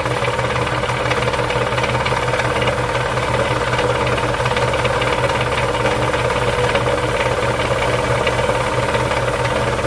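Restored 1929 air compressor running steadily, a rapid even mechanical beat with a low hum that does not change.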